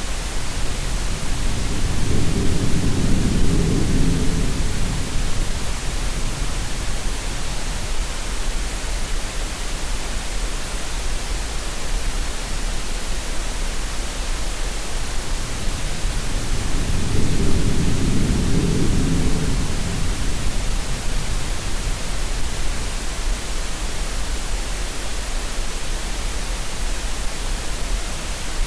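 Steady green noise hiss, with two low rumbling swells of sea waves rising and fading about fifteen seconds apart.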